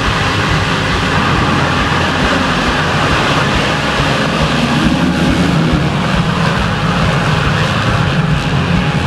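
Motocross bikes' engines running on the track, a loud steady mechanical drone.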